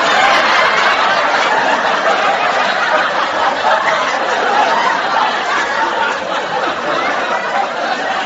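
A crowd of people laughing and chattering, many voices overlapping continuously.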